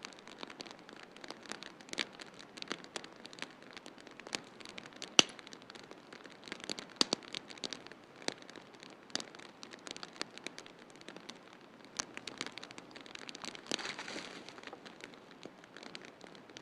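Wood fire crackling in a fireplace: frequent sharp pops and snaps over a steady soft hiss, the loudest pop about five seconds in, with a brief swell of hiss later on.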